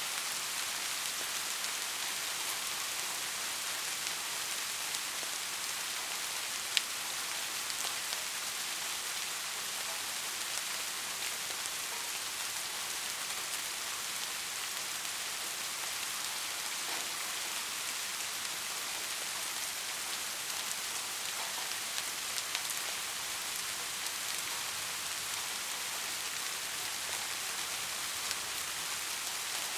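Steady rain: an even, dense hiss of falling drops, with a few sharper drop ticks, the loudest about seven seconds in.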